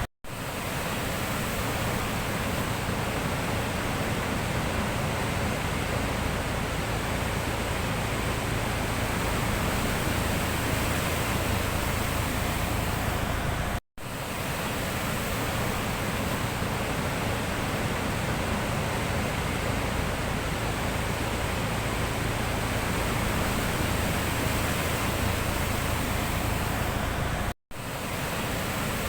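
Steady, even rushing noise of the sea, with no separate wave breaks standing out. It drops out to silence for a split second three times: at the very start, about halfway through and near the end.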